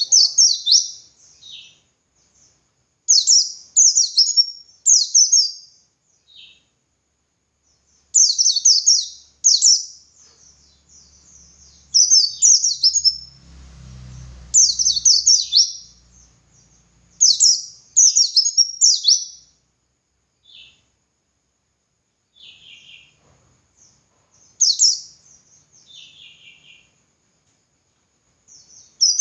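White-eye (pleci) singing its 'ngalas' song: bursts of rapid, high, falling chirps grouped into phrases of one to two seconds, repeated with short pauses between them.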